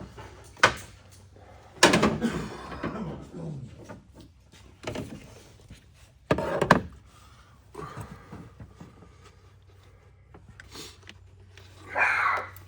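Intermittent clicks, knocks and clattering of hand tools and plastic hose fittings being worked loose in a truck engine bay: a sharp click a little before a second in, and louder clattering bursts at about two and about six seconds.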